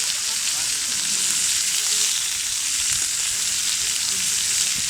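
Food frying over a campfire, a steady high sizzling hiss that does not let up.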